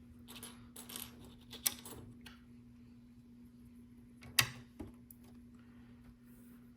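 Small plastic LEGO pieces clicking and rattling as they are handled, with a sharp click a little past four seconds in and a smaller one just after.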